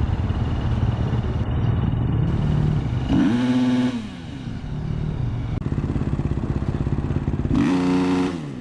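Supercross motorcycle engine idling with a lumpy beat, revved hard twice up to the rev limiter, about three seconds in and again near the end, each time holding briefly at the top before dropping back to idle.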